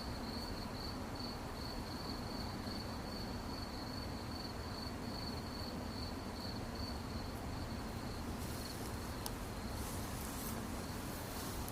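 Crickets chirping in a steady, rapidly pulsed high trill at one pitch, over a constant low background hiss. Short bursts of higher hiss and a single click come in during the last few seconds.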